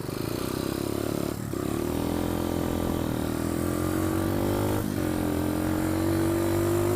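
Pit bike engine running under throttle while riding, its pitch climbing. The sound dips briefly twice, about a second and a half in and again near five seconds, and each time the pitch climbs again afterwards.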